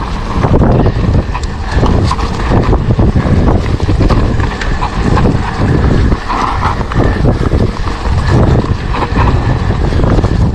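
Wind buffeting the microphone, with the mountain bike rattling and knocking over rough ground on a fast downhill ride.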